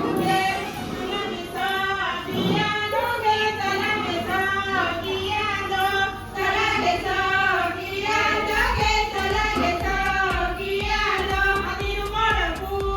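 A group of high voices singing a song together, with low thuds joining in about two-thirds of the way through.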